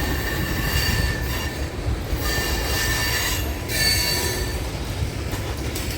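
Railroad cars rolling past with their wheels squealing in spells of high, steady tones over a continuous low rumble.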